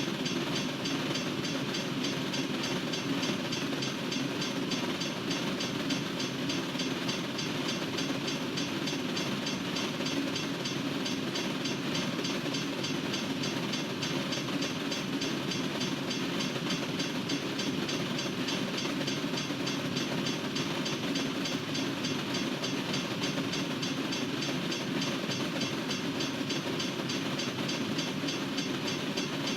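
Norfolk Southern freight train's cars rolling steadily past on the rails, a continuous even wheel-on-track noise.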